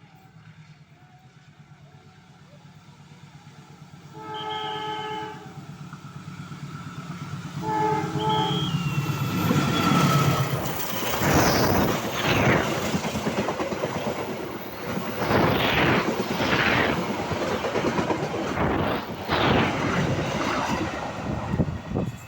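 Malioboro Express passenger train approaching with a low rumble, then sounding its horn twice, a longer blast about four seconds in and a shorter one about eight seconds in. It then rushes past the level crossing, its wheels clattering in a repeated beat over the rail joints.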